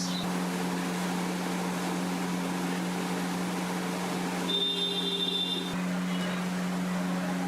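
A steady mechanical hum with a hiss under it. About four and a half seconds in, a high steady tone sounds for just over a second.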